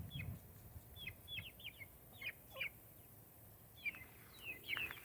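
Backyard chickens peeping: short, high, falling chirps in small scattered clusters, fairly faint.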